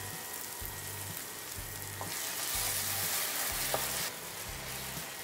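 Onion-tomato masala sizzling in oil in a stainless-steel pan as freshly added curd is stirred in with a wooden spatula. The sizzle grows louder for about two seconds in the middle.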